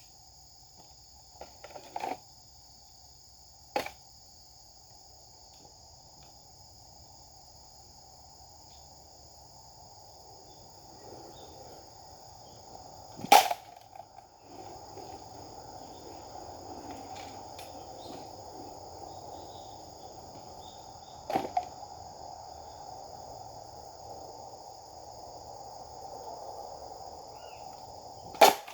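Sharp cracks of a Japanese sword cutting, five strikes spread out, the loudest about 13 seconds in. A steady high-pitched drone runs underneath.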